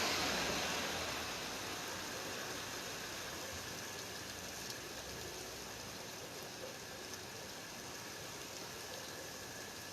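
Steady rain falling, heard as an even hiss. A louder rushing noise fades out over the first two seconds.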